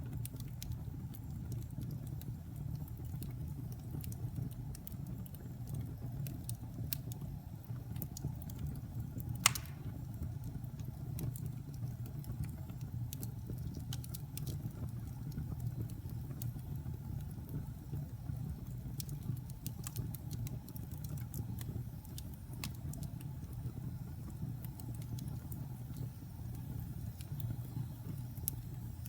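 Wood fire burning in a fireplace: a steady low rumble of flames with scattered small crackles, and one loud pop about nine seconds in.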